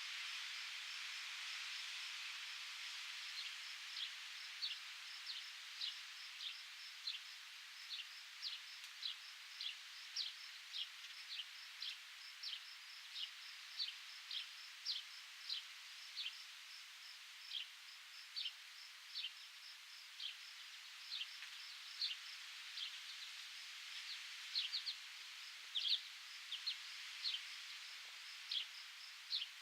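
Breeze rustling foliage, with a bird repeating a short falling call note about twice a second from a few seconds in. A few of the notes near the end are louder.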